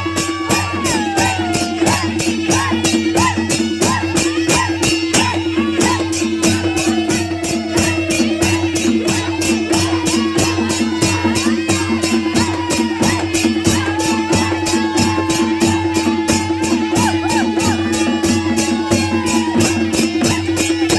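Nepali naumati (panche) baja band playing traditional music. A gliding melody rides over one steady held low note, with fast, evenly repeated cymbal-like strokes.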